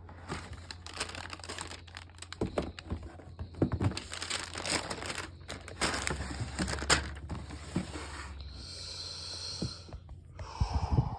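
Packaging paper crinkling and rustling as a sneaker box is opened and handled, with irregular small knocks and clicks of the box.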